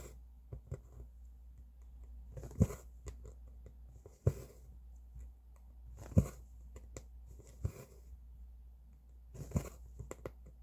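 Cross-stitch needle pushed through stitching fabric with a sharp tick, each followed by the brief rasp of thread being drawn through, repeating about every two seconds over a low steady hum.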